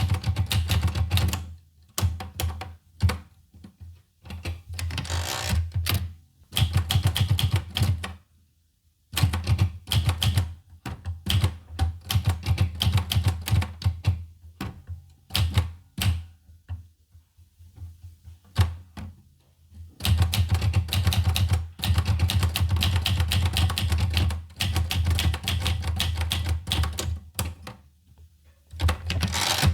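Olivetti Lettera 25 manual portable typewriter being typed on: rapid runs of key strikes broken by short pauses, with a longer, sparser lull a little past halfway.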